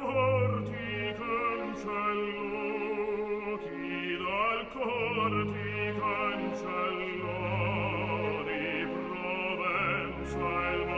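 An operatic aria: a solo singer with strong vibrato, sustaining long notes over an orchestral accompaniment.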